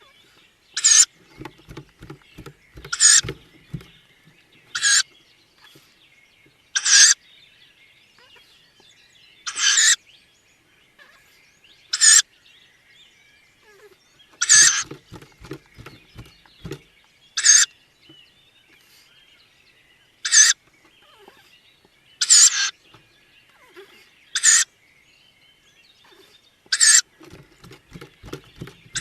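Tawny owl nestlings giving their hoarse, hissing begging calls, a dozen short calls each two to three seconds apart. Faint chirping of other birds lies underneath, with a few runs of soft rapid taps.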